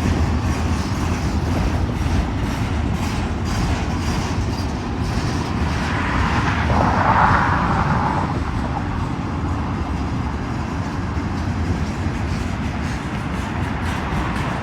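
Cars of a long intermodal freight train rolling past with a steady low rumble and scattered wheel clicks. A swell of hissing noise rises and fades about six to eight seconds in.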